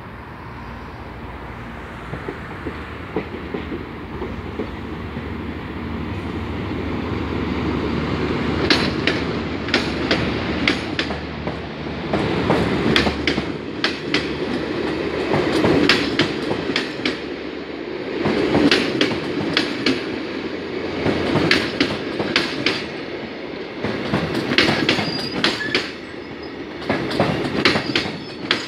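EU07 electric locomotive hauling a long special passenger train of 14 coaches past, the rumble growing louder as it nears. From about eight seconds in, the coach wheels click over rail joints in a cluster about every three seconds as each coach passes, over a steady rumble of the running gear.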